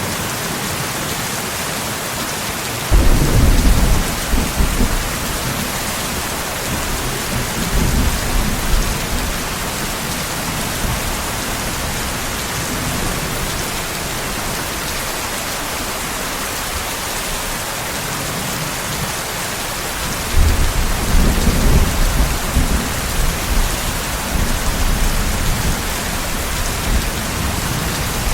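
Steady heavy rain with two rolls of thunder, the first breaking suddenly about three seconds in and the second, longer one about twenty seconds in, each rumbling for several seconds before fading.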